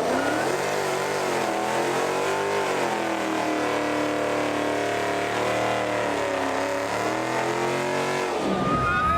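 A car engine revving hard for a burnout, held at high revs and rising and falling for several seconds, then dropping off near the end.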